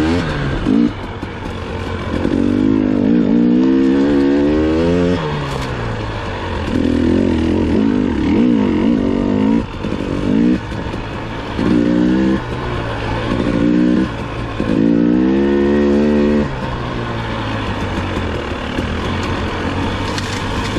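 Dirt bike engine revving in repeated short bursts as the throttle is opened and closed, the pitch rising and falling with each burst. For the last few seconds it runs lower and steadier.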